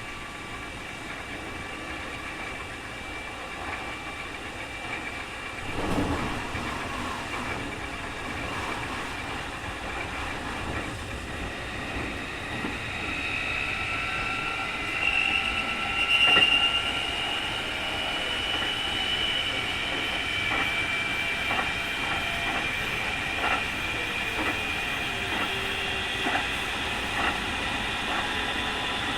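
Keikyu 2000 series electric train running, heard from inside the car: the Mitsubishi field-chopper traction motors give a high whine, the strong "jet sound" of this abnormal-noise car, which grows stronger in the middle. A loud knock comes about 6 s in and another about 16 s in, and the wheels click over rail joints in the second half.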